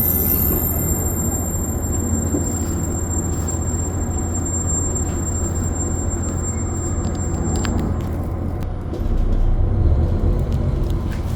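Inside a diesel express train under way: a steady low rumble of engine and wheels on the rails, growing louder about nine seconds in. A thin high tone runs along and stops about eight seconds in.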